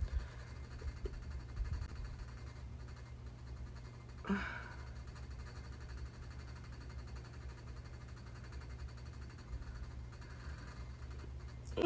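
Quiet room tone with a low steady hum, and a short breath or sigh from a person about four seconds in.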